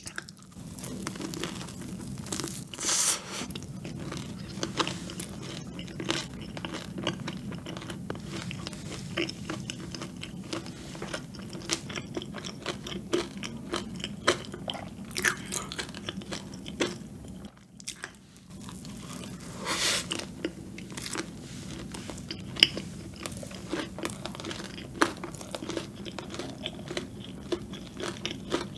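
Close-miked eating of a cream-filled donut: biting and chewing with many small crisp clicks and wet mouth sounds, louder bites a few seconds in and again about two-thirds through, after a brief lull.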